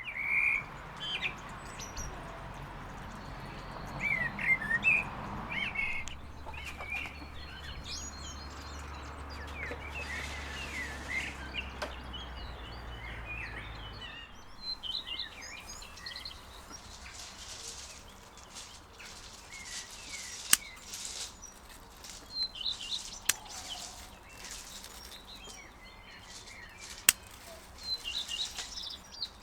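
Small birds chirping and twittering in short, repeated calls, over a steady low hum that stops about halfway through. A few sharp clicks come in the second half.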